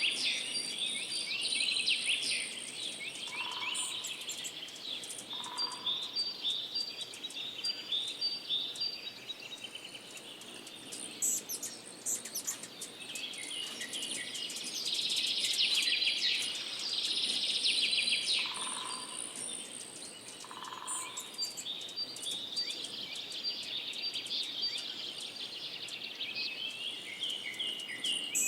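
Songbirds singing and chirping in rapid runs of high notes, with a faint high steady buzz behind them. Short, lower notes come twice in pairs, a few seconds in and again past the middle.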